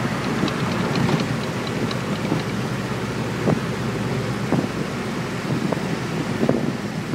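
Inside the cabin of a 1988 Ford Mustang GT, its 5.0 (302) V8 running steadily while driving, with the exhaust open past the catalytic converters, mixed with road and wind noise.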